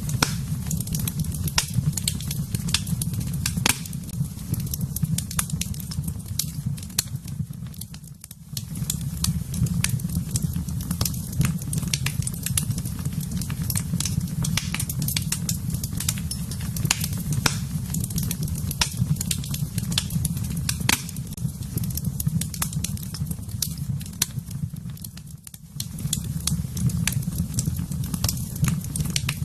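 Fire burning in a fireplace, crackling with frequent sharp pops over a steady low rumble. It briefly fades twice, about a third of the way in and again near the end.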